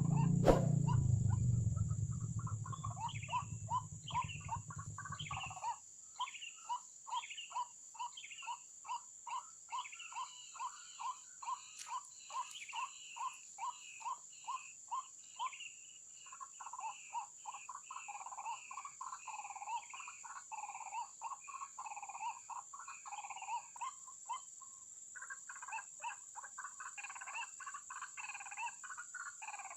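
White-breasted waterhen calling: a steady run of repeated notes at about two a second, giving way about sixteen seconds in to a denser, more varied chorus of calls. A low rumble underneath fades out about five seconds in.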